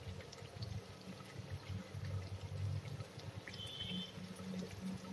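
Thick masala paste frying in oil in an open pressure cooker pan, bubbling and spluttering softly over a low steady hum. It is being roasted until the oil separates.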